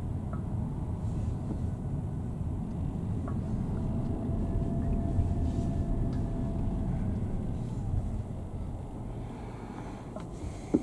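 Vehicle driving through the city, heard from inside: a steady low rumble of engine and road noise that eases slightly near the end.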